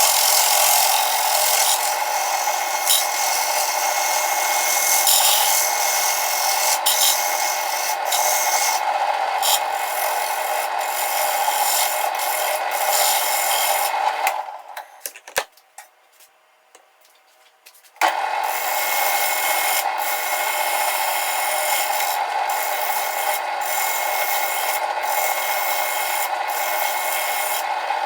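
Wood lathe spinning a plywood disc while a cutting tool scrapes its surface to true out a wobble: a steady rasping. The sound dies away about 14 seconds in and comes back abruptly about 4 seconds later.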